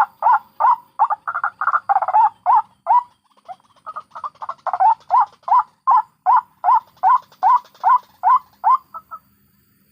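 White-breasted waterhen calling: a fast, harsh run of repeated 'kruak' notes, about three a second. The notes thin out and soften for a moment about three seconds in, then come back loud and even before breaking off about a second before the end.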